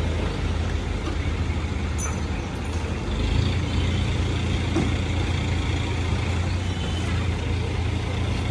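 A heavy vehicle's engine running with road noise, a steady low rumble that gets louder about three seconds in.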